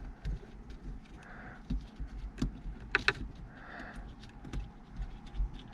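Small plastic clicks and light handling rustle, with a couple of sharper clicks near the middle, as the lane departure camera's heater and bracket parts are handled.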